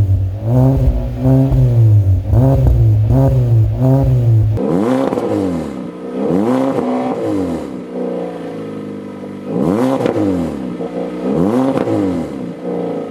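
Exhaust of a 2019 Kia Forte's 2.0-litre four-cylinder, fitted with a Vibrant Performance resonator and a Hotrodscotts valve muffler, being revved in a series of quick throttle blips, each rising and falling in pitch. About four and a half seconds in, the deep, booming part of the sound drops away and the revs go on thinner and quieter.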